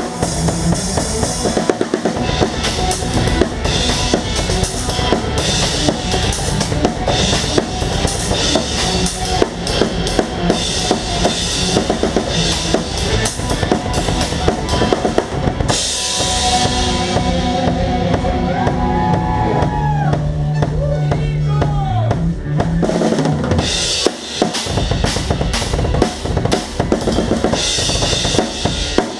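A rock band playing live, with the drum kit loud in the mix: bass drum and snare drive a steady beat. Just past the middle the beat drops out for several seconds under a wash of high noise and gliding pitched notes, then the full kit comes back in.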